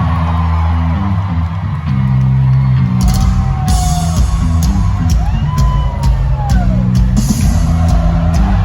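Electric bass guitar playing a solo of loud, stepped low notes, with the rock drum kit coming in about three seconds in. Whoops from the crowd sound over it.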